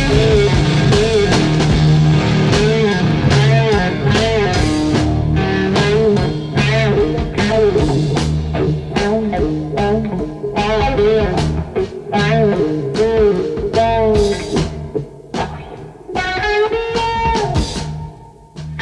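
Blues-rock electric guitar solo over drums, full of string bends and wide vibrato; near the end it thins out to a few long, held bent notes.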